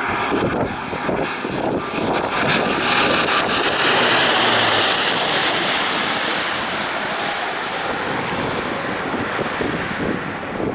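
Airliner passing close overhead: engine noise swells to a loud peak about four to five seconds in, then slowly fades.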